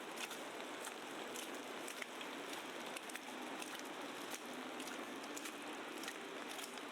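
Heavy wet snowfall on a city street: a steady hiss with many small, scattered ticks of flakes and drops landing close by.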